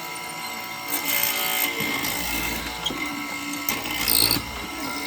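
A power tool working wood: a steady motor tone, with louder surges about a second in, around two to three seconds, and just after four seconds as the tool bites.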